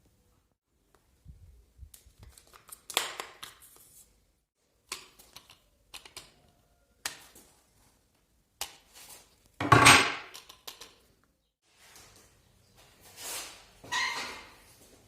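Bicycle repair handling sounds: scattered clicks and clatters of metal tools and parts being worked and set down, with one louder knock about ten seconds in.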